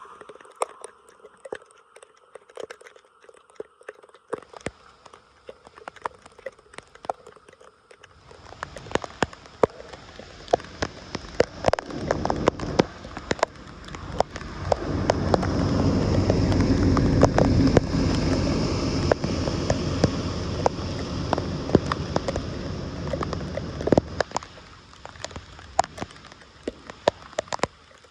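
Water rushing and splashing through a cleared drain or culvert. It builds about eight seconds in, is strongest in the middle and dies down near the end, with many sharp splashes and ticks throughout.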